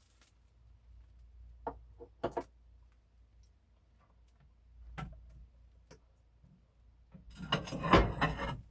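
Food containers being handled in a small kitchen: a few separate light knocks and clicks, then about a second and a half of louder clattering and rubbing near the end.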